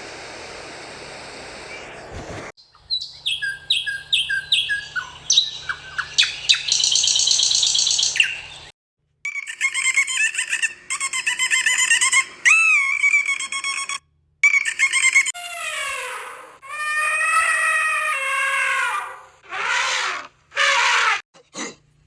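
Bird chirps and calls in several short clips cut together, each ending abruptly, with brief dead silences between them.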